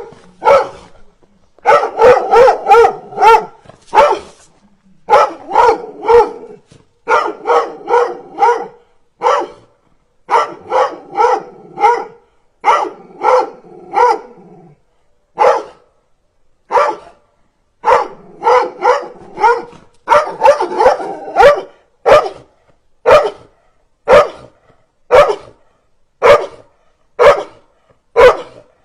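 Dogs barking aggressively: rapid runs of barks through the first half, then single barks about once a second.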